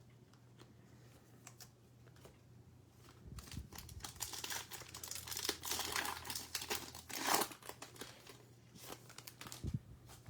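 Trading-card pack wrapper crinkling and tearing as a pack of football cards is handled and opened. It starts about three seconds in and dies down a few seconds later.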